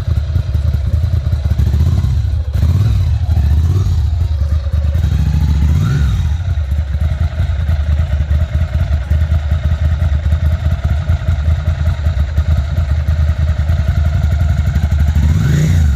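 Ducati 750 SS's air-cooled L-twin engine running at idle with a loud, deep beat, blipped on the throttle several times: once about three seconds in, again near four and six seconds, and once more just before the end, each rev rising and falling back.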